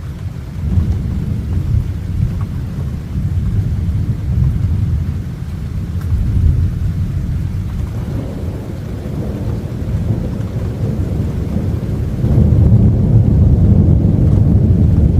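Thunder rumbling in long rolls, swelling and fading several times and growing loudest about twelve seconds in.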